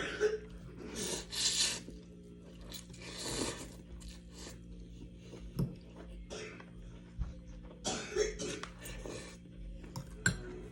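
A person eating noodles and chicken: several short breathy bursts, about a second in, again past three seconds and near eight seconds, with light clicks of dishes or cutlery, over a steady low hum.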